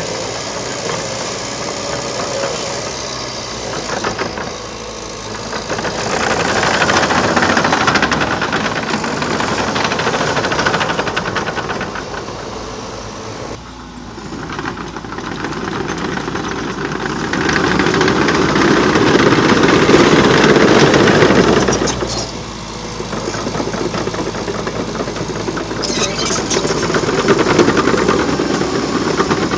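Liebherr PR 726 crawler dozer's diesel engine working under load, growing louder twice and easing off in between.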